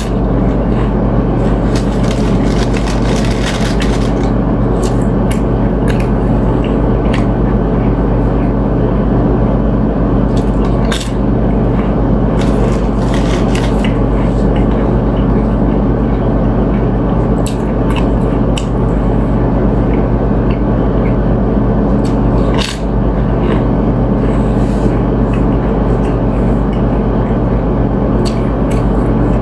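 A loud, steady low hum throughout, with scattered short clicks and scrapes from eating chips and ceviche off a plate.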